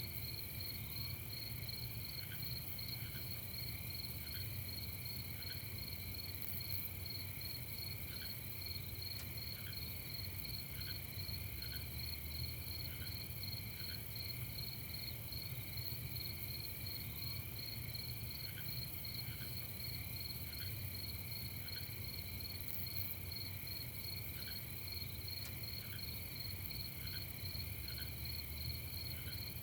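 Crickets chirping in a steady night chorus, many calls blending into continuous rapid high-pitched trilling, with a few lower, softer chirps in short groups now and then.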